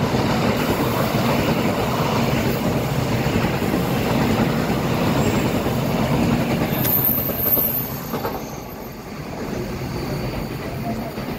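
Electric commuter train running past on the tracks below, its wheels rumbling over the rails, with a brief high squeal about seven seconds in. The sound drops away after about eight seconds as the train recedes.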